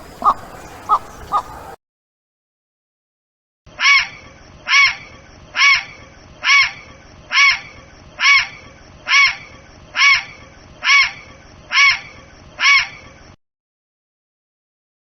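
A bird calling: eleven evenly spaced calls, each a short rising-and-falling note, about one a second. Before them there is a brief run of quicker, sharper calls that cuts off abruptly, then a short silence.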